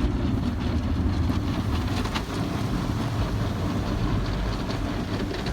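Automatic car wash equipment working over the car, heard from inside the cabin: a steady deep rumble with scattered sharp hits against the body.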